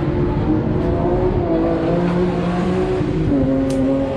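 Racing car engines running, a steady drone of engine notes that shift slowly in pitch and drop a little about three seconds in.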